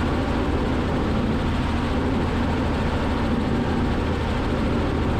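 Robinson R44 helicopter's engine and rotor noise in steady cruise flight, heard through the cockpit intercom with its volume turned down. It is a constant hum with a faint steady tone above it.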